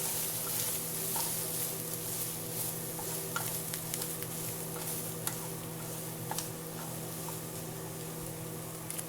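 Chicken pieces sizzling in hot oil in a pan as they are stirred and mixed, with scattered sharp clicks of the spatula against the pan; the chicken is being fried dry at the end of cooking. A steady low hum runs underneath.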